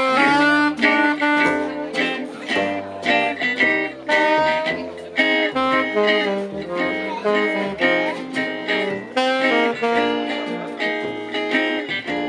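Gypsy-jazz (jazz manouche) band playing an instrumental passage, acoustic guitar to the fore with strummed chords, a melody line running over it and low bass notes underneath.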